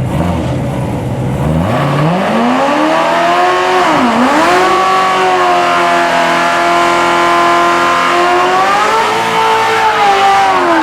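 Drag-race launch of a twin-turbo Lamborghini with a Corvette chasing it down the strip. Engine pitch climbs hard, dips once at a gear change about four seconds in, then holds high and steady before falling away near the end.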